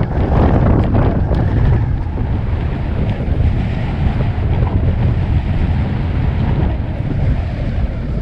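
Strong gusting wind buffeting the microphone: a loud, steady low rumble, rougher in the first second or so.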